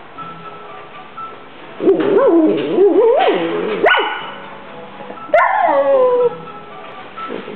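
A schnauzer 'talking': long, pitched, whining vocalizations. The first warbles up and down for about two seconds, and the second starts high about five seconds in and slides down.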